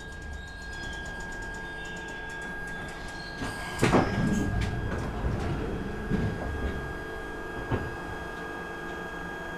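Glasgow Subway train's sliding doors shutting with a loud thud about four seconds in, followed by a couple of smaller clunks, over the train's steady hum and a thin steady whine.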